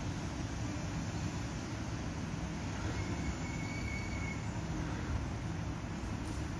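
A train running through the station: a steady low rumble, with a faint high squeal for about a second near the middle.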